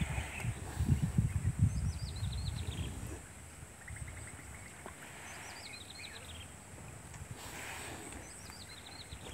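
A bird repeats a short descending chirping phrase about every three seconds, with a brief trill about four seconds in. Wind buffets the microphone with a low gusty rumble through the first three seconds, and a faint steady high tone runs underneath.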